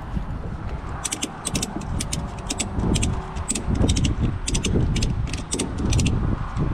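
Kayak paddling against the wind: paddle strokes in the water about once a second, with a quick run of sharp high clicks and wind rumbling on the microphone.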